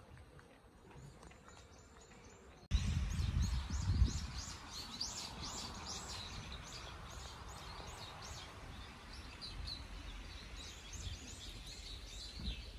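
Outdoor ambience of many small birds chirping quickly and continuously, each chirp short and falling in pitch. The chirping begins abruptly about three seconds in, after a quieter stretch, and comes with a low rumble that is heaviest at first.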